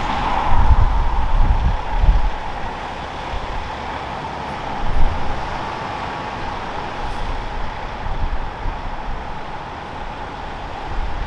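Jet engine noise from an Airbus A320-214's CFM56 engines, a steady rush with a whine that fades over the first few seconds. Gusty crosswind buffets the microphone in low thumps throughout.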